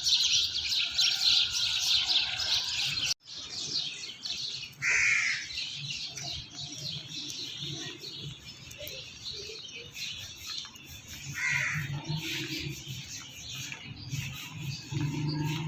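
Many small birds chirping continuously, with two louder arching calls about five and eleven seconds in; the sound cuts out abruptly for an instant about three seconds in. A low steady engine-like hum rises near the end.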